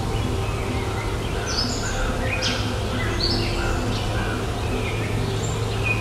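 Birds calling, many short high-pitched chirps and sharp calls in quick succession over a steady low background hum.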